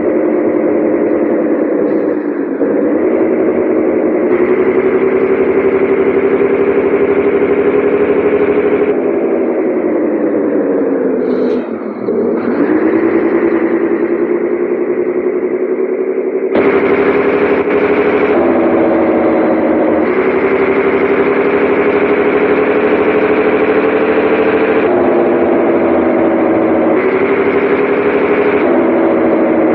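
Scania 113H 360's six-cylinder diesel engine running under load, loud and distorted. Its pitch sinks slowly, dips briefly about a third of the way through, then picks up again. The sound jumps abruptly several times in the second half.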